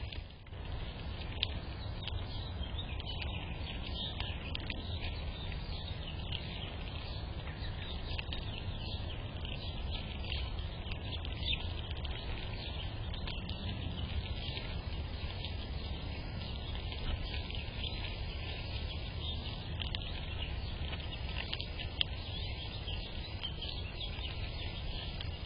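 Small birds chirping and twittering in many short, scattered calls over a steady low rumble.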